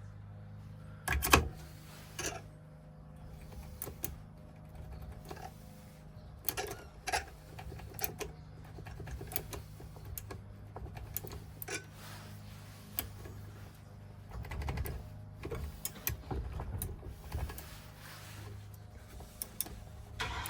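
Scattered light clicks and taps of a metal key and small hand tools being handled while fitting a key to a Ford ignition lock cylinder, over a steady low hum. The loudest knock comes about a second in.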